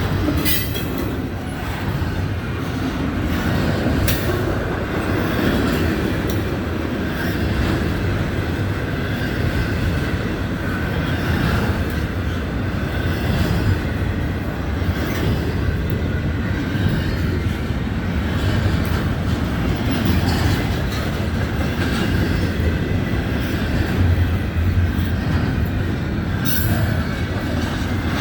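Florida East Coast Railway train cars rolling past: a steady loud rumble of wheels on rail, with occasional sharp clicks over rail joints and a faint, steady high wheel squeal.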